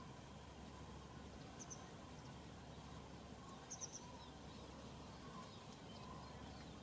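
Quiet outdoor background with faint, high chirps of a small bird: a short pair about one and a half seconds in and a quick run of three a couple of seconds later.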